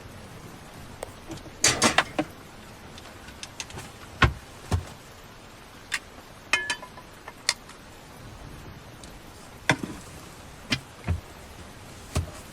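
Scattered knocks and clicks of dishes, utensils and cupboards being handled while lunch is prepared, with one short ringing clink about six and a half seconds in, over a steady hiss of rain.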